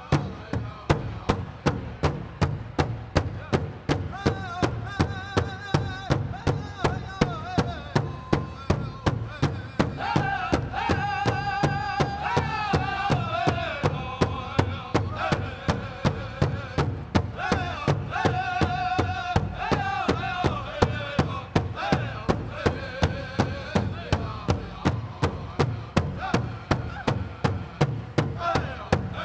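Powwow drum group: a large drum struck in a steady, even beat, about two to three strokes a second, with several singers' high voices carrying a song over it. The singing is strongest about ten seconds in and again around eighteen seconds.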